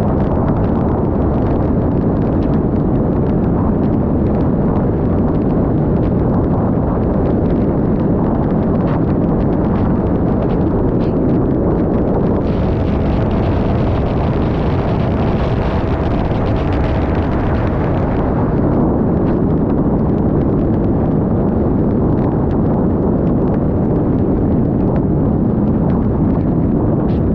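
Loud, steady wind rush on the microphone of a Yamaha XMAX 300 scooter under way, with a faint steady hum underneath; a brighter hiss swells in for several seconds midway.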